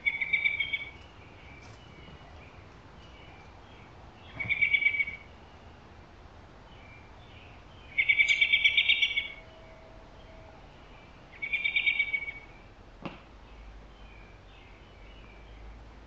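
A songbird calling in four bursts, each a fast trill of repeated notes lasting about a second. A single short click comes late on.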